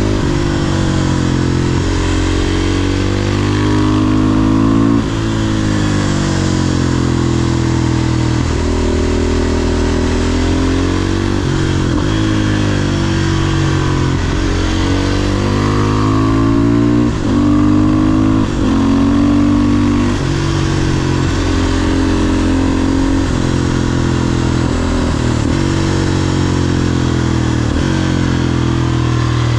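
500cc supermoto motorcycle engine pulling hard and backing off repeatedly. Its pitch climbs under acceleration and drops sharply at gear changes several times, then falls away on closing the throttle.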